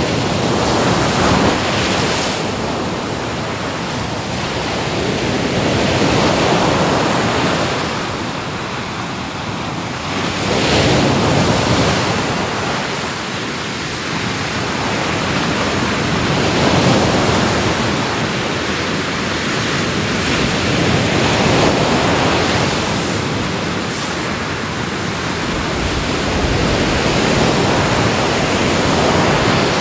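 Ocean waves breaking and washing up the shore in a steady surge, swelling and ebbing about every four to five seconds, with some wind noise.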